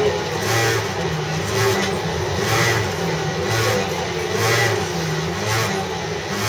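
Unusual noise from a CityRail S-set electric train carriage: a low, uneven rumble that swells and fades about once a second, like a motorbike engine stalling.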